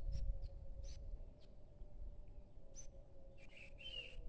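Small birds chirping: short high chirps scattered throughout, with a longer call near the end. A low rumble sits under them, loudest in the first second.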